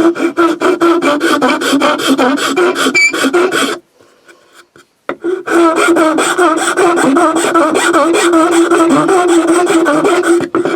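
A file rasping along the edge of a wooden piece in quick, repeated scraping strokes, taking it down to a marked line. The strokes pause for about a second and a half just before halfway, then resume.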